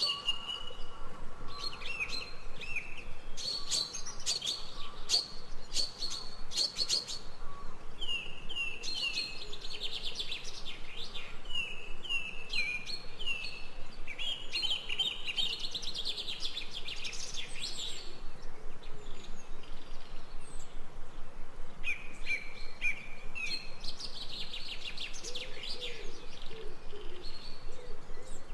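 Forest birds chirping and singing: a busy mix of calls with runs of short, repeated down-sliding chirps and fast trills, over a faint steady background hiss.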